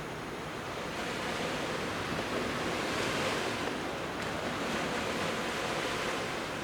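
Sea waves breaking and washing up the beach, a steady surf that swells about three seconds in and then eases off.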